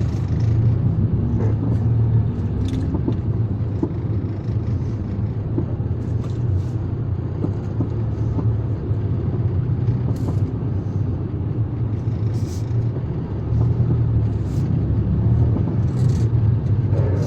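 Motor vehicle running, a steady low rumble of engine and road with scattered light clicks and rattles.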